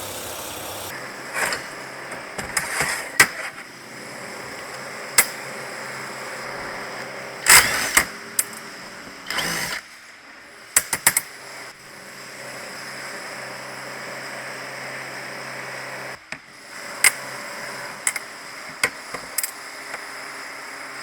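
A steady machine hum with irregular sharp clicks and knocks scattered over it, as of metal parts and tools being handled during restoration work.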